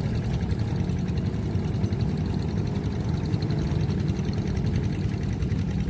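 Airliner jet engines running with a steady low rumble.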